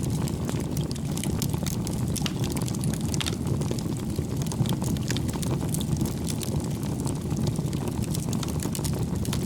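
Wood fire burning: a steady low rumble of flames with frequent small crackles and pops from the burning firewood.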